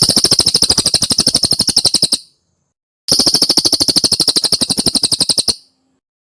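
A cililin bird singing two rapid chattering trills of about a dozen notes a second, each lasting a little over two seconds, with a pause of about a second between them. This is the close-spaced cililin song used as tutor song for white-rumped shamas.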